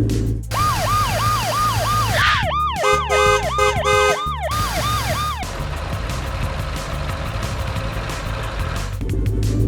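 Cartoon emergency-vehicle siren sound effect, a fast rising-and-falling yelp at about three sweeps a second that stops about five seconds in. A steady low rumble, like a vehicle engine, runs on underneath.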